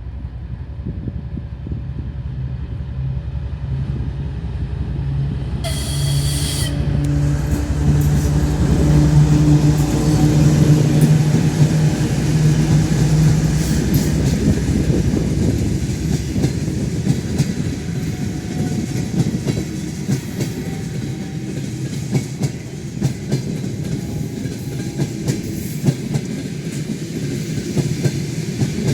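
A TEP70BS diesel locomotive approaches and passes with a passenger train, its diesel engine drone growing louder. It sounds a short horn blast about six seconds in. The engine's note peaks as the locomotive goes by, then the coaches follow with a rumble and repeated clickety-clack of wheels over rail joints.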